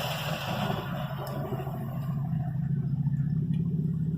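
A car passing by outside, its road noise fading away over the first couple of seconds, over a steady low engine hum.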